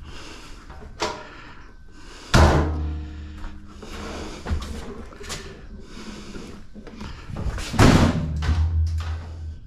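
Metal clanks and thuds from a scrap appliance being knocked apart by hand. Two loud bangs, a couple of seconds in and near the end, each leave a low hum ringing for about a second, with lighter knocks between them.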